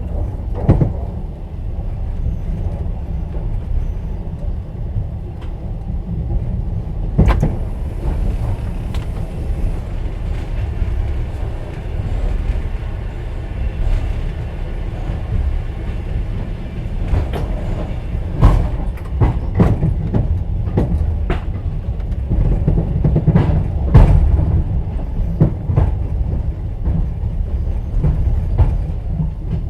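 Passenger train running, heard from inside an open-plan sleeper carriage: a steady low rumble of the wheels on the rails, with irregular sharp knocks and clacks that come thicker in the second half.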